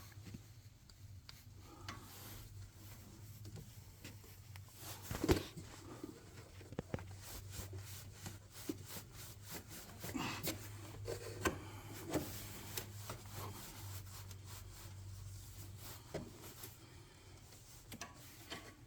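Hand tools scraping, rubbing and clicking against a broken plastic dipstick piece that is seized in the engine's dipstick tube, as it is worked at and refuses to come out. A steady low hum runs underneath, with the loudest knock about five seconds in.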